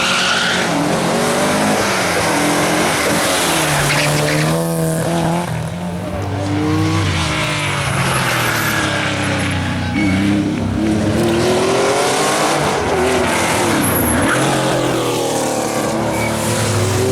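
Rally car engine at full throttle, its revs climbing and dropping again and again as it is driven hard through the gears.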